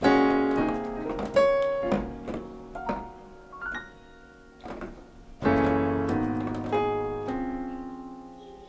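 Piano intro: chords struck and left to ring and fade, with a new chord about every one to two seconds and the fullest at the very start and about five and a half seconds in.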